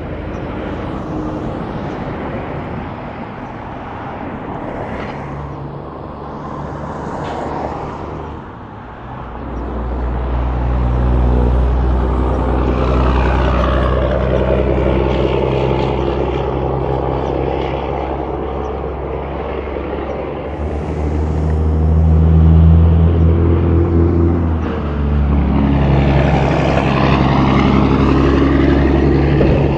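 Highway traffic: tyre and wind noise at first, then from about ten seconds in a heavy diesel engine running steadily and loudly close by as big trucks pass.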